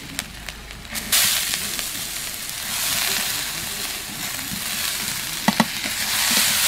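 Soaked red lentils (masoor dal) tipped into a wok of hot mustard oil and fried onion-spice mix, sizzling as they hit the oil. The sizzle sets in sharply about a second in and runs on while a metal spatula stirs them, with two sharp clicks near the end.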